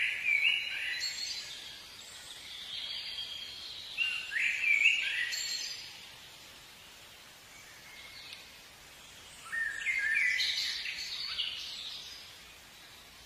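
Small songbirds singing outdoors: three bursts of short, high chirping phrases, near the start, around four seconds in and around ten seconds in, with quieter gaps between.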